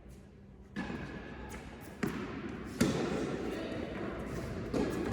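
Tennis ball being hit by rackets and bouncing on an indoor court during a rally: four sharp knocks about a second or two apart, each followed by a lingering echo in the hall.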